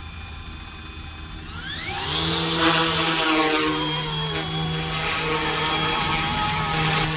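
Brushless electric motors of an Eachine E190 RC scale helicopter spooling up: a rising whine about a second and a half in, then settling into a steady, louder whine and rotor hum.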